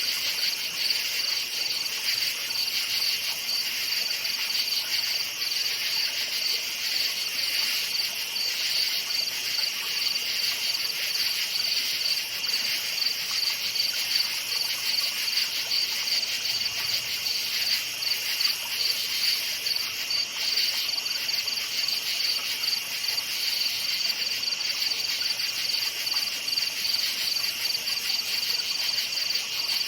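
Night chorus of crickets chirping continuously, a dense high-pitched trill that stays steady throughout.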